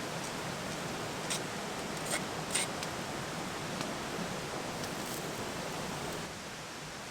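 A steady outdoor hiss with a few sharp clicks or pops scattered through it, dropping slightly in level near the end.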